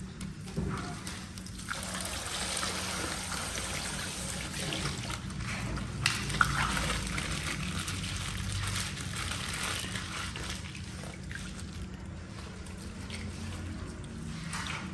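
Coloured water sloshing and trickling out of a plastic ice-pack bag as it is squeezed and opened, with a couple of sharp clicks about six seconds in.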